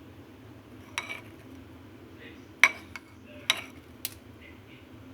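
Utensil clinking against dishware four times, each a sharp strike with a short ring.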